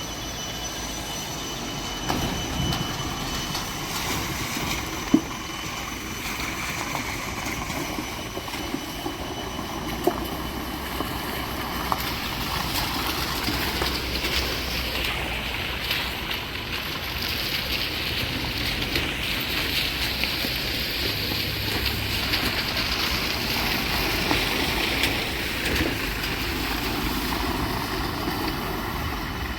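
Steady road noise of a vehicle travelling along a rough highway: continuous rumble and rattle with a few sharp knocks in the first ten seconds, and a rushing hiss that grows louder about halfway through.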